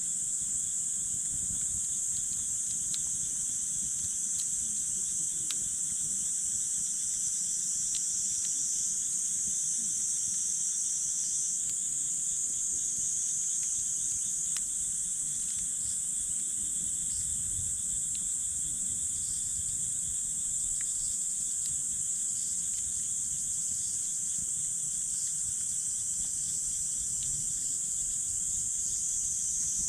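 Steady high-pitched insect chorus, crickets trilling continuously, over a wood campfire with a few small, scattered crackles and a low fluttering rumble.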